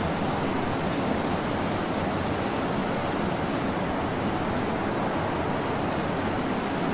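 Ocean surf washing onto a beach: a steady, even hiss of breaking and receding waves, with no single wave standing out.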